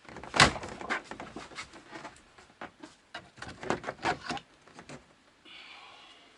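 Irregular clicks, knocks and light clatter, as of objects being handled, thinning out after about five seconds into a faint steady hiss.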